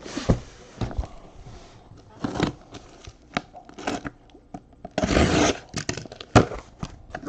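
Trading-card boxes and their packaging being handled: a series of short scrapes, knocks and crinkles, with a longer rustling scrape about five seconds in.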